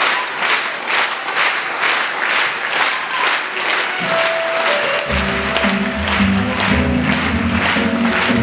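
Poplar leaves rustling in the wind, a dense hiss that swells and fades about twice a second. About four seconds in, music with long held low notes comes in under the rustling.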